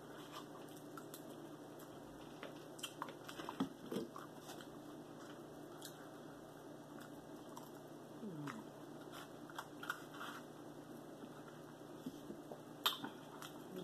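A person chewing and biting barbecued meat, with scattered small mouth clicks and smacks and a sharper click near the end. A couple of brief low hums fall in pitch, one about four seconds in and another just past eight seconds.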